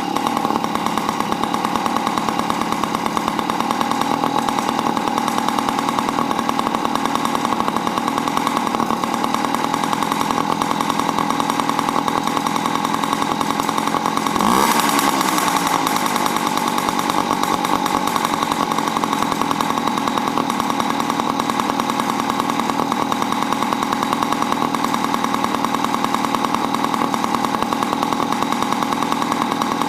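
A 2000 Yamaha PW50's small 49 cc two-stroke single-cylinder engine, freshly kick-started, running steadily with the buzzy rattle of a small two-stroke. About halfway through it briefly gets louder and shifts in pitch, then settles back to a steady run.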